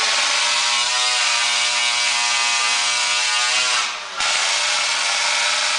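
Single-cylinder speedway motorcycle engine running at high revs. About four seconds in, the throttle briefly shuts off and the pitch sags, then the revs pick up again.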